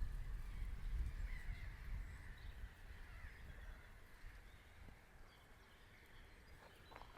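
Outdoor ambience of birds calling and chirping in the background, with a low rumble like wind on the microphone during the first couple of seconds. A few harsher bird calls come near the end.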